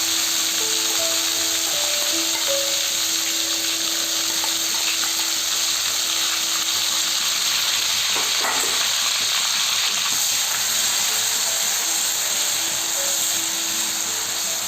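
Onion paste frying in hot oil in a kadai with whole spices, a steady sizzle throughout. Soft background music plays over it for the first half and again near the end.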